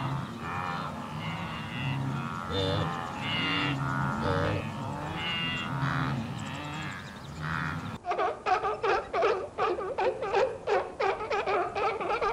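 A wildebeest herd grunting, many low nasal calls overlapping one another. About eight seconds in, the sound cuts to a quick series of seal calls, about three a second.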